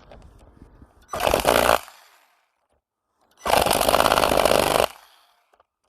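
A power tool runs in two short bursts, the first under a second, the second about a second and a half long with a rapid buzzing pulse.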